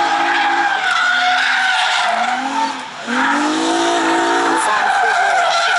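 Drift cars sliding with long, wavering tire squeal while engines rev, the engine note climbing twice, with a brief drop in level around three seconds in.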